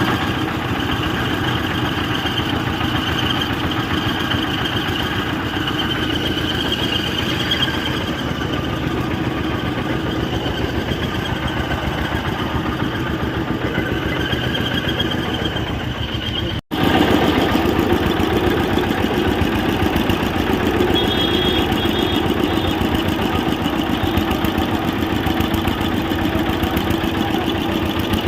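Pump-set engine running steadily while driving a mixer-grinder. The sound drops out for an instant a little past halfway, then the engine runs on slightly louder.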